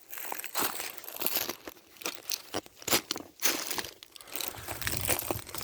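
Irregular crunching and crackling footsteps on dry ground, with a few sharp cracks.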